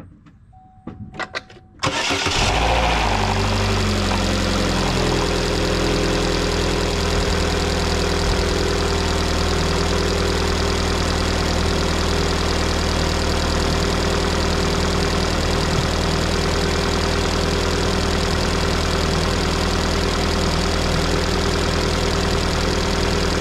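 2011 Chevy Cruze engine cranked and started about two seconds in, then running at a higher idle that settles down within a few seconds to a steady idle. It is started right after an oil change to circulate the fresh oil before the level is rechecked.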